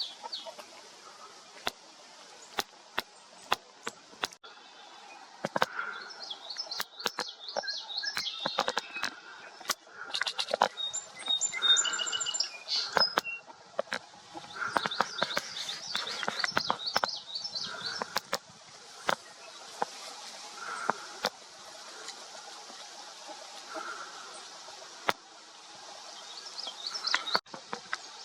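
Wild songbirds singing outdoors: bursts of quick, high chirping phrases come and go, with a lower call repeating every few seconds and scattered sharp clicks throughout.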